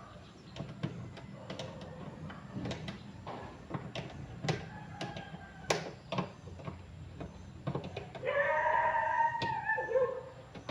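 Irregular clicks and taps of small hard objects being handled. About eight seconds in comes a louder, wavering pitched call lasting about two seconds.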